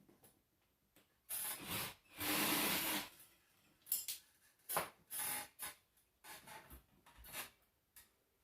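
A series of short rubbing and scraping noises, the longest and loudest lasting nearly a second about two seconds in.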